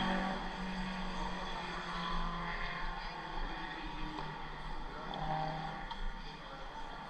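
Race car engine running at a steady pitch. It fades out about two and a half seconds in and comes back briefly about five seconds in.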